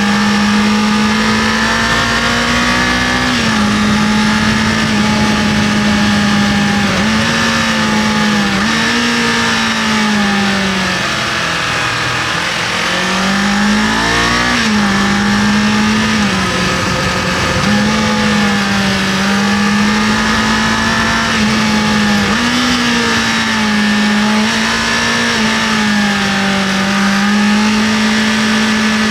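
Kawasaki KLE500 motorcycle engine running at cruising revs under a rider's throttle, its pitch holding steady with small rises and dips, sagging for a couple of seconds about ten seconds in and climbing back. A steady rush of noise runs underneath.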